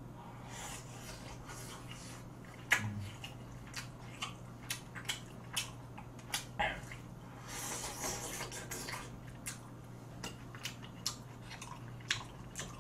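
Close-miked chewing of gamjatang pork-bone meat: wet mouth clicks and smacks come irregularly, several a second at times, with one louder knock about three seconds in. A steady low hum runs underneath.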